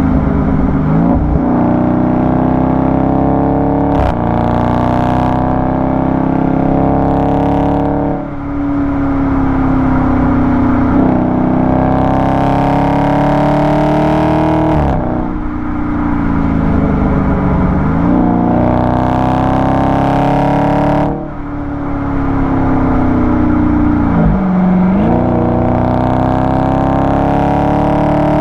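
Exhaust of a Dodge Charger 392's 6.4-litre Hemi V8, recorded at the tailpipe while driving. The engine note climbs under acceleration and drops sharply several times, as the revs fall and build again.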